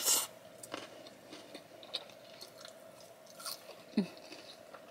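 Close-up eating sounds: a short slurp as a bite of poke bowl is sucked off chopsticks, then quiet chewing with small wet mouth clicks.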